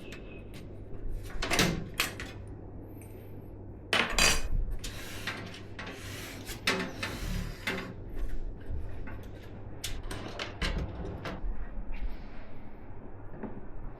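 Hands handling PC parts and their packaging: a run of clicks, knocks and taps, the loudest about a second and a half and four seconds in, with rustling in between.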